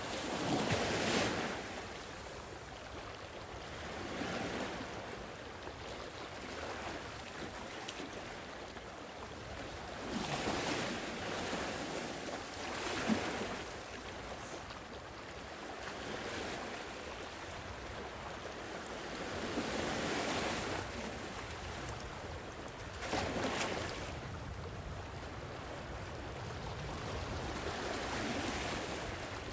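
Sea waves breaking and washing on the shore, each wave swelling up and falling away every few seconds over a steady low rumble of surf.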